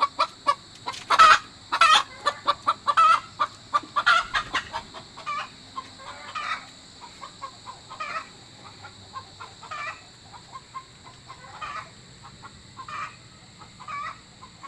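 Native chicken clucking in a rapid run of short calls, loudest in the first four seconds, then sparser and fainter. A steady high-pitched hum runs underneath.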